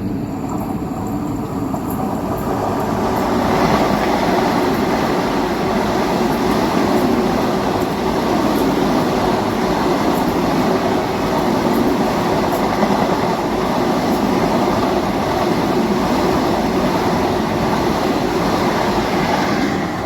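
Train running past at speed: a steady rush of wheels on rails that swells about three seconds in and holds.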